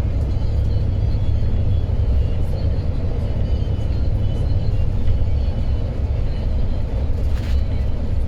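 Steady low rumble of an intercity coach driving down the highway, heard from inside the cabin, with a brief hiss about seven seconds in.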